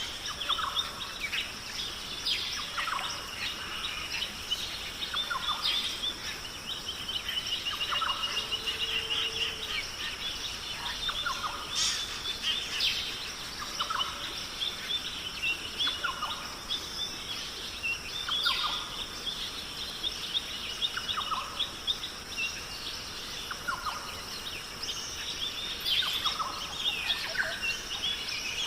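Mixed wild birdsong: many short chirps and trills, with a lower call repeating about every two seconds, over a steady high hiss.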